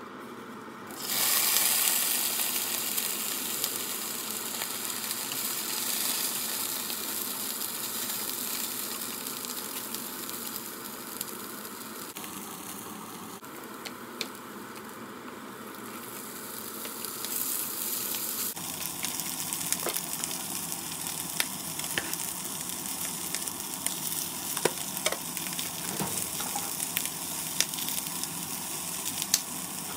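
Potato sticks, then green beans and ham, frying in a square tamagoyaki pan: a steady sizzle that jumps up sharply about a second in as the food goes into the hot pan. In the second half, chopsticks stirring the food tap and click against the pan over the sizzle.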